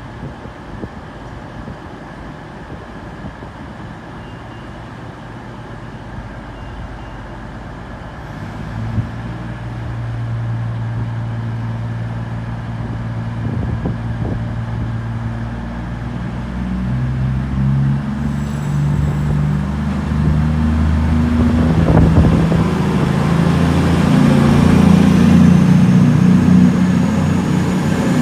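CrossCountry Voyager diesel trains (Class 220 and 221) pulling out, their underfloor diesel engines throttling up: the engine note steps up in pitch several times and grows steadily louder, with a faint rising whine near the end.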